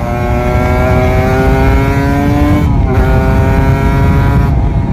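Kawasaki Ninja RR 150's two-stroke single-cylinder engine pulling under acceleration, its pitch rising steadily, dropping sharply at a gear change about two and a half seconds in, then rising again before the throttle eases near the end.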